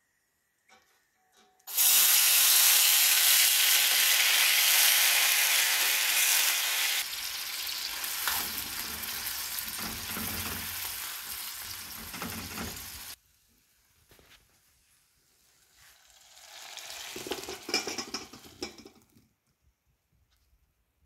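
Dry dog kibble dropped into a pan of hot reused frying oil: a loud sizzle starts suddenly about two seconds in and eases after several seconds while a spoon stirs and scrapes the kibble around the pan, then stops abruptly. Near the end, a quieter rattle and hiss as the fried kibble and oil are tipped from the pan into a metal bowl.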